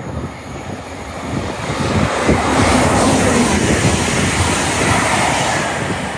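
A train passing at speed: a rushing noise that swells from about two seconds in and eases off near the end.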